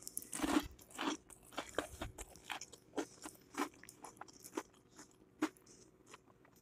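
A person chewing crunchy battered fried food with the mouth close to the microphone: soft crunches about twice a second.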